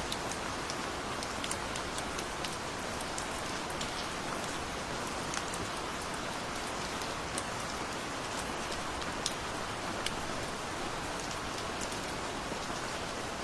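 Steady rain with a constant hiss, and individual drops ticking sharply on a surface here and there.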